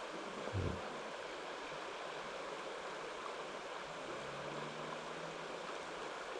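Mountain stream water running steadily, an even rushing hiss, with a single dull bump about half a second in.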